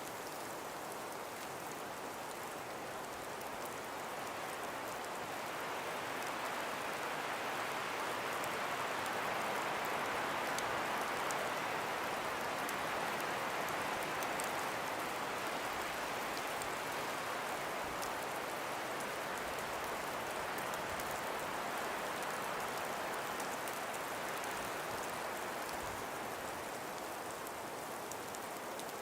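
Steady breeze blowing through a forest, swelling into a gentle gust partway through and easing back toward the end.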